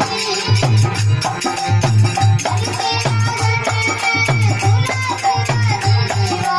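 Instrumental passage of a desi folk bhajan: a steady pulsing drum beat with rattling percussion under a melodic line.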